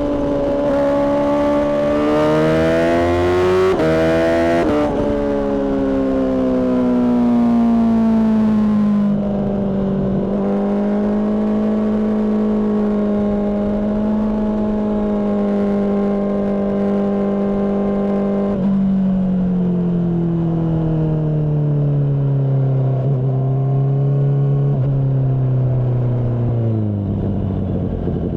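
Honda CBR600RR inline-four engine through a Mivv exhaust, ridden hard: the engine note climbs over the first five seconds with brief breaks at the gear changes, holds steady at speed, then falls away slowly in the second half as the bike slows.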